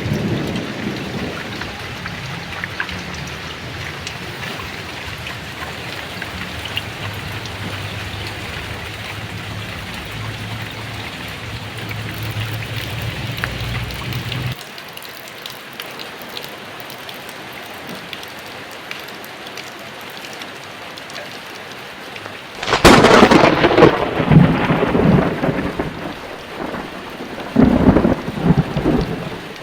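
Heavy rain falling steadily, with a low thunder rumble that cuts off abruptly about halfway through. About three-quarters of the way in a loud, sharp thunderclap breaks out and rolls on, and a second loud peak of thunder comes near the end.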